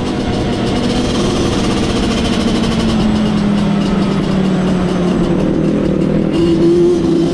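An off-road vehicle's engine running. Its pitch sags slowly over several seconds, then rises near the end as it revs up.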